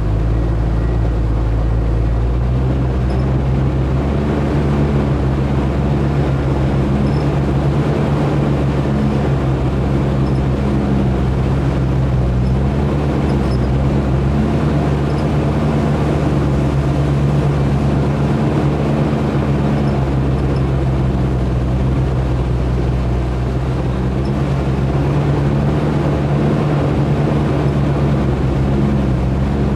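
Off-road 4x4's engine running steadily at low speed as the vehicle drives a rough forest trail, heard close from on board; the engine note changes slightly about two seconds in.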